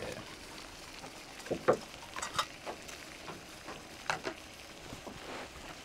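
Water at a boil in a pot on a backpacking stove, a steady hiss, with a few short knocks and clinks from handling the pot.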